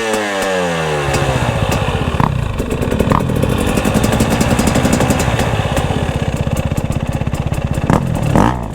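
Husqvarna enduro dirt bike engine easing off, its revs falling over the first second, then running steadily at low revs with an even putter as the bike crawls along the trail.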